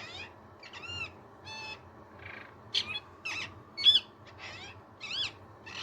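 Parrot making a string of short, unintelligible chattering calls, each sliding up and down in pitch, about two a second.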